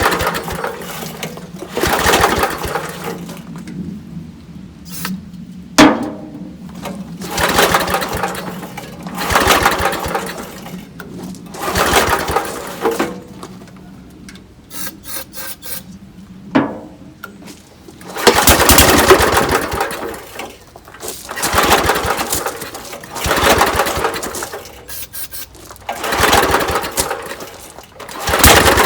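Small gas engine on a portable air compressor being cranked over again and again without catching, each try a short burst about a second long, with two sharp pops. It is firing only on ether because the carburettor's main jet is screwed fully shut.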